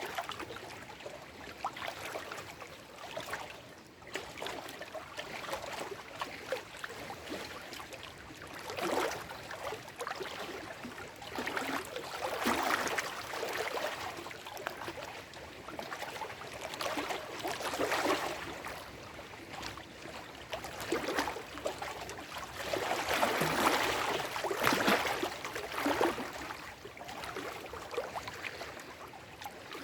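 Small lake waves lapping and splashing over shoreline rocks in irregular surges every few seconds. The splashes are strongest about twelve seconds in and again around twenty-three to twenty-five seconds in.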